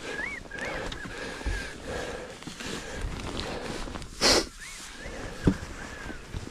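Birds calling outdoors with short rising-and-falling whistled notes. A sudden loud rush of noise comes about four seconds in, and a sharp knock follows soon after.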